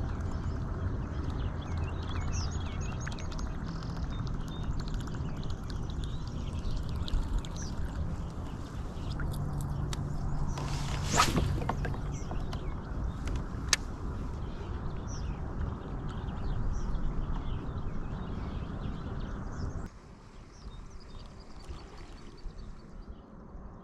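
Small birds chirping over a steady low rumble that stops abruptly about twenty seconds in, with one sharp snap about eleven seconds in.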